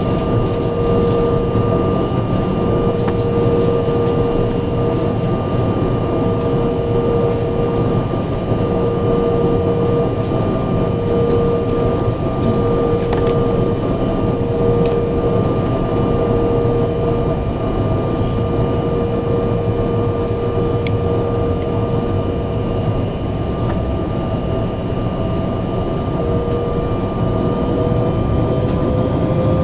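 Embraer 175's turbofan engines heard from inside the passenger cabin: a steady whine over a low hum. Near the end the whine starts to rise in pitch as the engines spool up.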